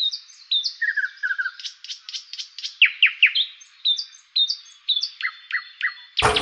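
Birdsong: a quick series of chirps, short trills and falling whistles, with no low sound beneath it. About six seconds in, a loud, rough noise cuts in across the whole range.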